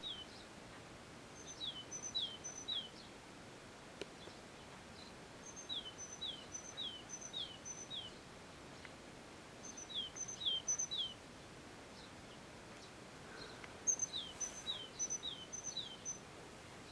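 A songbird singing four short phrases, each a quick run of three to six repeated high two-part notes that drop in pitch, with pauses of a couple of seconds between phrases. A steady faint outdoor hiss sits underneath.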